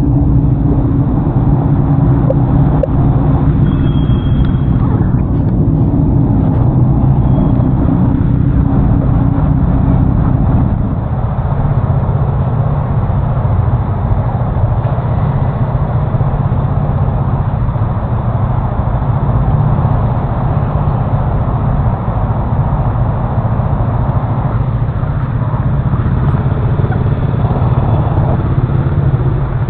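Honda Forza 350 scooter's single-cylinder engine running under way, with wind rush on the camera microphone; the engine hum eases a little about eleven seconds in.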